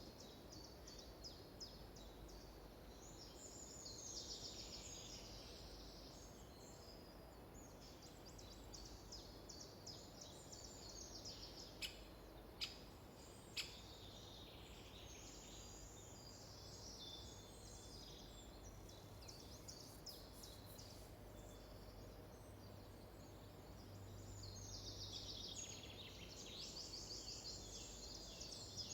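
Forest birdsong: several small birds singing and chirping with rapid trills, faint against a low background hush. Three sharp clicks come close together near the middle.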